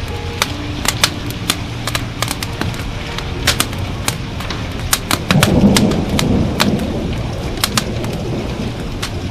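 Wood fire in a fireplace crackling with frequent sharp pops, over a steady hiss of rain. About five seconds in, a roll of thunder swells and slowly fades.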